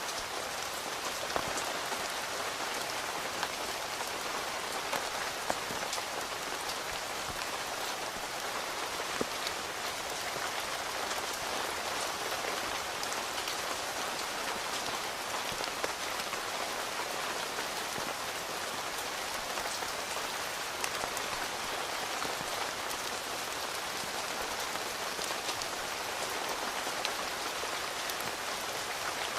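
Steady rain falling on a tent, an even hiss dotted with occasional louder single drops.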